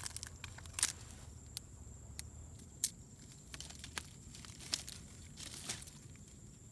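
Dry sticks and leaves being handled, giving irregular sharp snaps and crackles about every half second, over a faint steady high whine.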